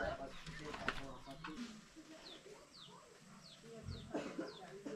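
Quiet bird chirping: a run of short, high chirps, each falling in pitch, repeated about twice a second from about two seconds in, with faint voices behind.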